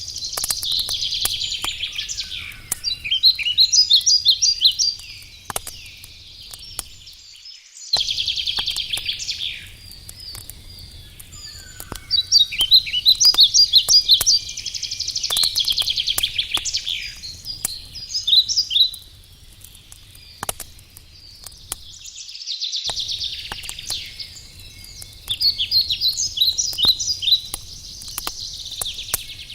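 A songbird singing repeated short phrases of trills and quick notes, over the scattered crackle and pops of a burning wood campfire. The birdsong is the loudest sound.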